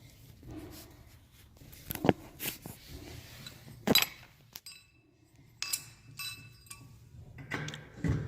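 Steam radiator and its piping banging: several sharp metallic bangs and clanks at irregular intervals, the loudest about two and four seconds in, some followed by a brief metallic ring.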